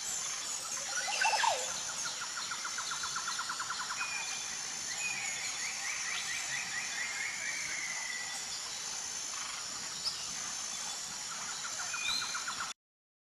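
Wild birds calling and chirping over a steady high background, with a rapid trill of about ten notes a second. The sound cuts off abruptly just before the end.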